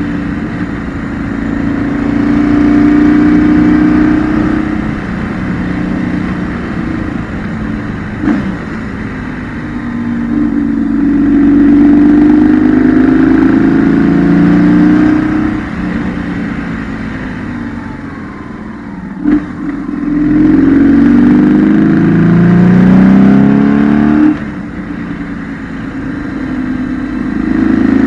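BMW R1200GS flat-twin boxer engine heard onboard, pulling hard out of curves and backing off, so that its note rises and falls several times. There are two short sharp cracks, about eight seconds in and again about nineteen seconds in.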